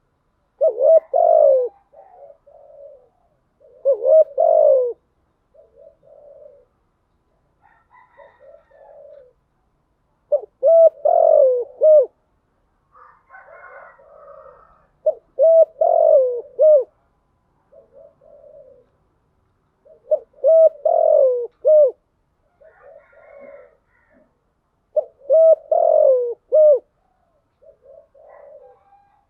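Spotted dove cooing: loud phrases of coos repeat about every five seconds, with softer, shorter coos between them.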